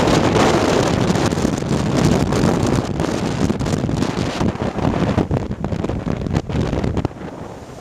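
Typhoon wind gusting hard against the microphone: a loud, rumbling, buffeting rush that eases somewhat near the end.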